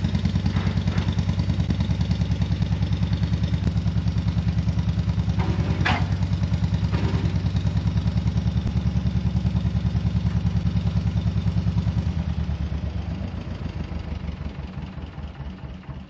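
1956 John Deere 420 tractor's two-cylinder engine running with an even putt-putt beat, fading out over the last four seconds. A short clank about six seconds in.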